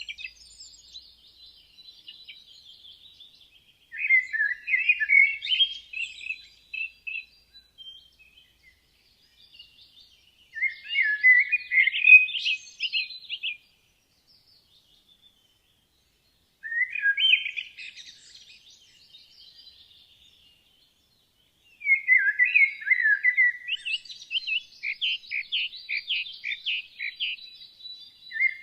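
Woodland songbirds singing in bursts of quick, high chirping phrases, each one to three seconds long, separated by pauses of near quiet. A longer, busier stretch of song comes near the end, with a fainter thin whistle behind it.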